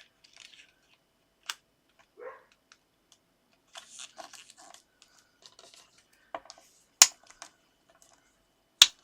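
Strip of card being folded and creased by hand: short papery rustles and scrapes, with a few sharp taps, the loudest about seven seconds in and again near the end.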